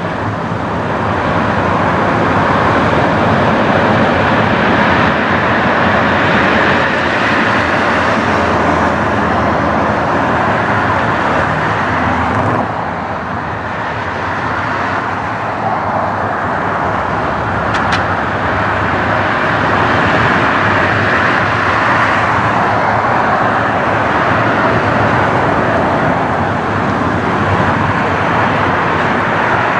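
Jet airliner engines running, a loud steady rushing roar that eases for a moment about 13 seconds in.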